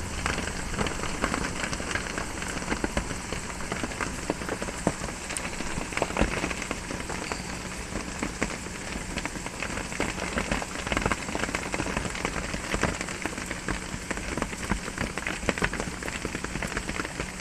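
Steady rain drumming on a metal roof, a dense patter of many small sharp drop hits.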